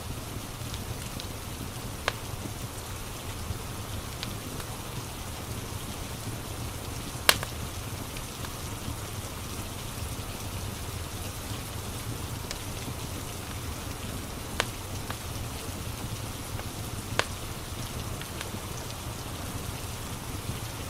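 Steady rain with a crackling wood fire: a constant hiss of rain broken by occasional sharp pops from the fire, the loudest about seven seconds in.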